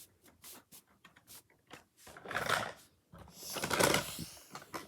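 Hard plastic toy truck being handled: scattered light clicks and knocks, with two longer rustling sounds in the second half.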